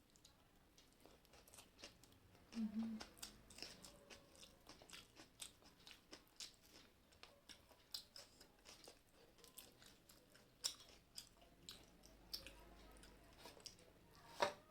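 A person chewing and eating close to the microphone: irregular wet mouth clicks and soft crunchy bites, several a second, with a brief low hum about two and a half seconds in.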